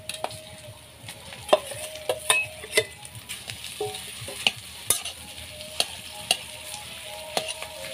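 Mashed potato frying in hot mustard oil in a metal kadai, sizzling steadily while a metal spatula stirs it, scraping and knocking against the pan at irregular intervals.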